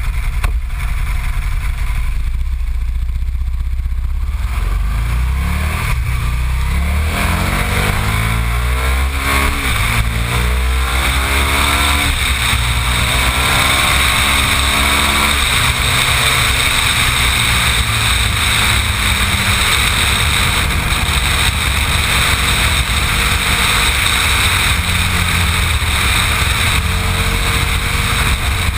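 Big-bore 1127 cc Rotax V-twin of a modified Aprilia Tuono motorcycle accelerating hard, its pitch rising and dropping back at gear changes about ten, twelve and fifteen seconds in. It then runs steadily at speed under a constant rushing noise.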